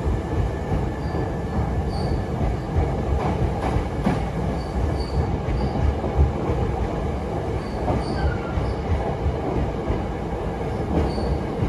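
Hankyu electric commuter train running past along the platform: a steady rumble of steel wheels on rail with occasional clacks over the rail joints and a few faint, brief wheel squeals.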